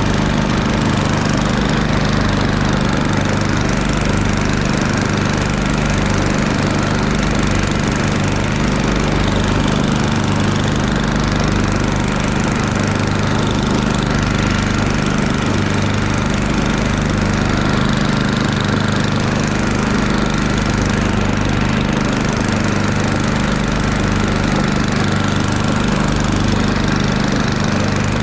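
Murray Ultra 8/27 snowblower's 8 hp single-cylinder engine running steadily, with an even low throb.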